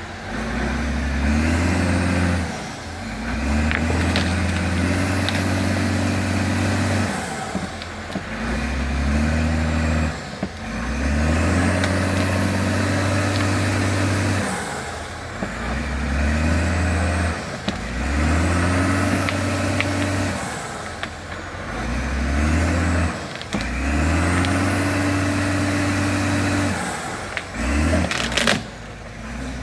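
Forestry tractor's diesel engine revving up and holding under load again and again, roughly every four seconds, with a high whistle rising and falling with each rev.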